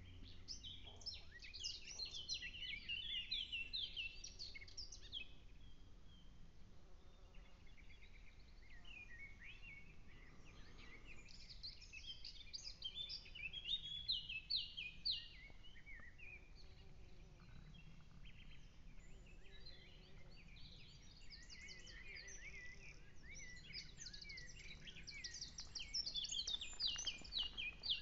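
Songbirds singing in bouts of quick, high, repeated notes, with a lull around six to ten seconds in.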